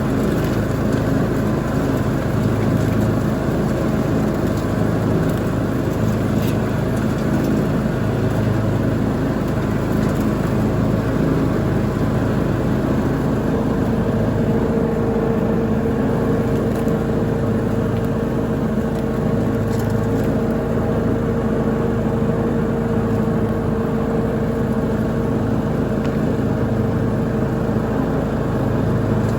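Lawn mower engine running steadily while mowing. A higher steady whine joins in about 13 seconds in.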